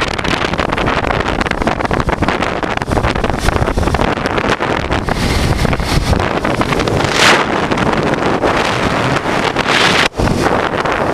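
Wind buffeting the microphone on a moving motorcycle, with the Honda Transalp's V-twin engine running underneath at cruising speed. A stronger gust of wind about seven seconds in.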